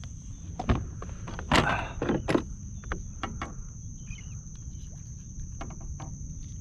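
Scattered clicks and knocks of handling a freshly caught white trout while working a swallowed hook loose, with one louder scuffle about a second and a half in. A steady high-pitched whine runs underneath.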